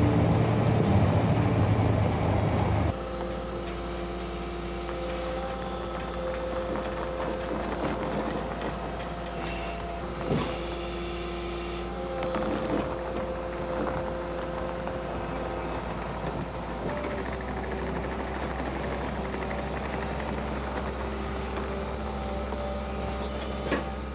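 Music for the first three seconds, cut off suddenly, then a Skag zero-turn mower's engine running steadily, its low drone shifting about two-thirds of the way through.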